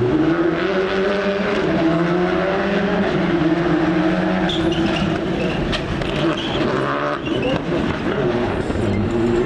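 Rally car engine working hard through a stage. The pitch climbs under throttle, dips at gear changes and climbs again, with a brief lift-off about seven seconds in.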